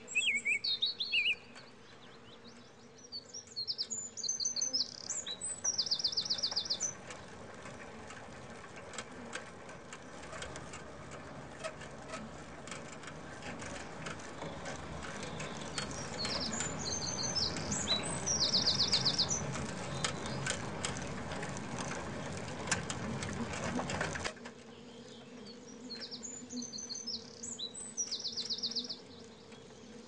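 A songbird singing a short high chirped phrase that ends in a fast trill, repeated three times about ten seconds apart. Through the middle runs a rough steady noise with scattered clicks, which cuts off suddenly about three-quarters of the way in.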